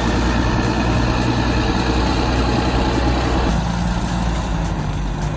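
Heavy diesel engine of an earth-moving machine running steadily. A little over three seconds in, its note changes and a higher low hum takes over.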